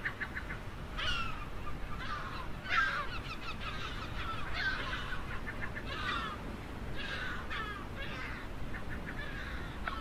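Gulls calling: harsh, repeated calls about once a second, each one falling in pitch.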